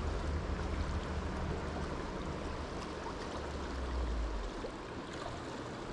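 River water flowing in a steady rush, with a low rumble underneath that fades out about four and a half seconds in.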